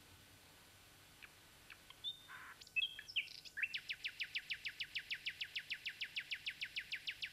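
Bird chirping: a few scattered high chirps, then from about three and a half seconds in a fast, even run of short rising notes, about seven a second.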